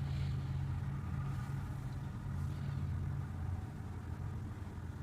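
Audi Q7 3.0T's supercharged V6 idling steadily with a low, even hum, heard from inside the cabin.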